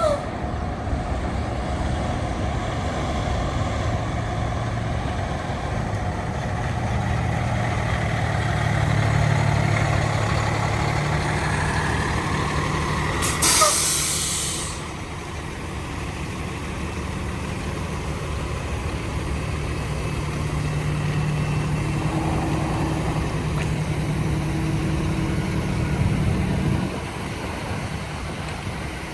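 Diesel engine of a Freightliner M2 106 garbage truck running, its speed rising and falling a couple of times and dropping back near the end. About halfway through there is a sharp hiss of air brakes that lasts about a second and a half.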